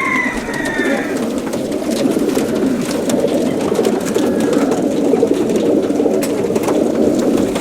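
A large flock of young racing pigeons crated in a transporter trailer, cooing together in a steady, dense chorus, with a few higher calls in the first second and scattered light clicks.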